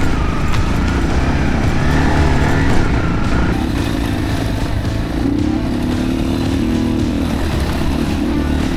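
Single-cylinder dirt bike engine running on a rough trail, its pitch rising and falling with the throttle.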